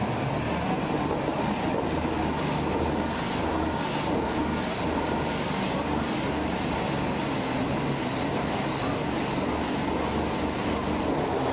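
Semi-truck diesel engine running steadily, with a high whine that wavers slowly in pitch over it.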